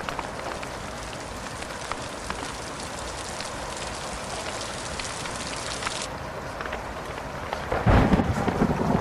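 Steady rain hiss with scattered small crackles of a wood fire, then a rumble of thunder about eight seconds in.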